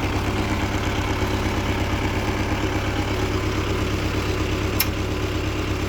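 Kubota tractor's diesel engine running steadily, with one sharp click a little under five seconds in.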